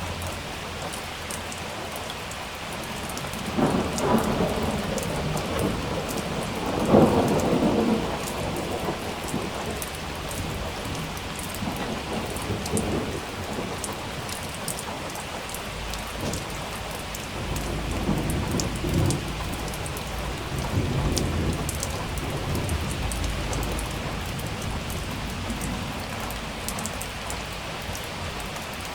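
Steady heavy rain with thunder: two loud peals about four and seven seconds in, the second the loudest, then long low rumbles rolling on through the middle of the stretch.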